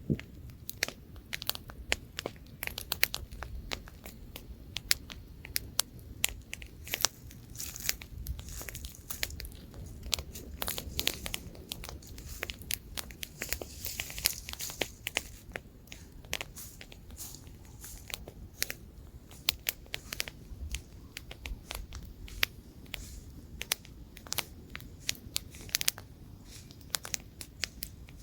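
Campfire wood burning and crackling: many sharp pops and snaps, irregular and close together, over a low steady rumble of flame and light wind.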